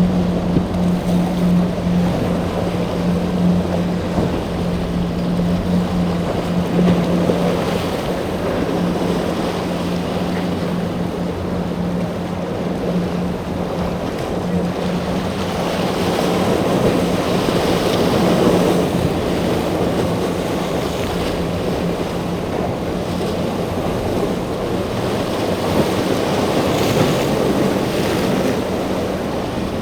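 A motorboat's engine humming steadily over the wash of waves, with wind buffeting the microphone; the engine hum weakens about halfway through.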